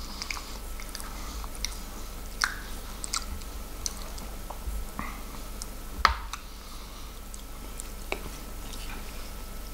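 Close-miked chewing and wet mouth sounds of a man eating corned beef hash, with scattered small clicks and smacks and one sharper click about six seconds in.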